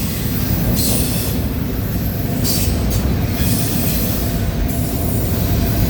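Freight train cars rolling steadily past close by: a continuous low rumble of steel wheels on rail, with bursts of high-pitched wheel noise every second or two.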